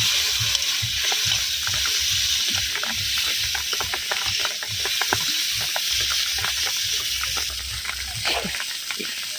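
Rain falling: a steady hiss with many small drips and splashes scattered through it, easing slightly near the end.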